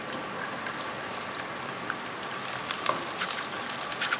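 Boiled onion paste frying in hot oil: a steady sizzling hiss with scattered small pops and crackles.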